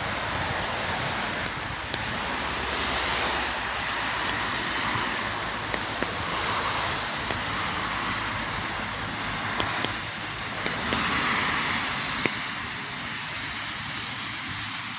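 Steady hiss of rain falling, with a few scattered sharp ticks.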